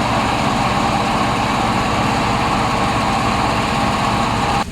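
An engine running steadily at a constant speed, with an even, fast pulsing throb.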